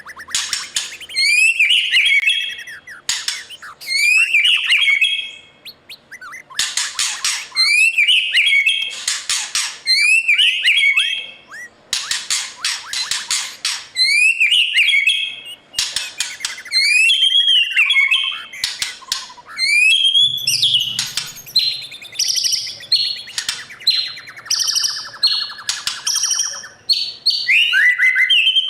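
White-rumped shama singing a long, varied song. It repeats short rising whistled phrases about once a second, then mixes in rapid chattering runs and other varied phrases.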